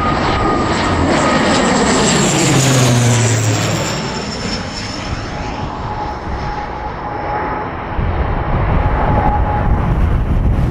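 ATR 72 twin-turboprop airliner climbing out after take-off. Its engine and propeller drone peaks and falls in pitch as it passes, then carries on as a steadier, quieter drone.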